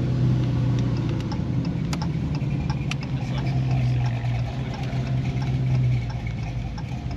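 Chevrolet Camaro Z28's V8 engine idling with a steady low drone that drops back about six seconds in.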